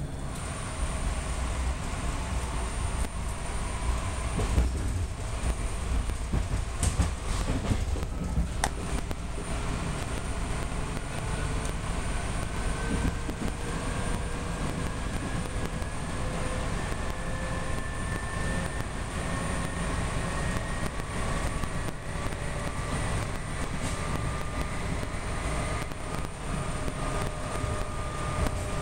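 PATCO rapid-transit train running, heard from inside the front car: steady rumble of wheels on rail under a motor whine that rises slowly in pitch as the train picks up speed. A few sharp clicks come about a third of the way in.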